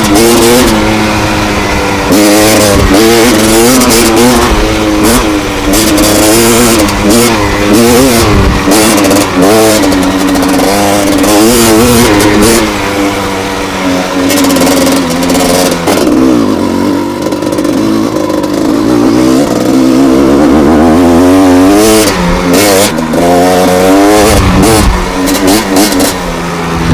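Gas Gas EC250 two-stroke enduro engine on the move, the revs rising and falling over and over through gear changes, with a steadier, lower-revving stretch in the middle.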